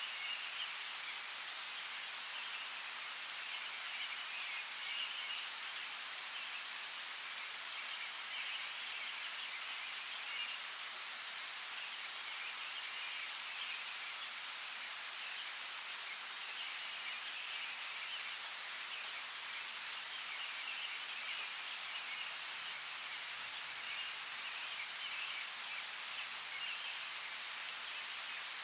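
Steady rain hiss with now and then a sharp drop hitting close by, and bird chirping that comes and goes every few seconds behind it.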